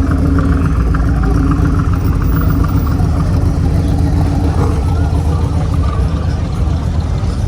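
A car engine running steadily with an even, low-pitched tone.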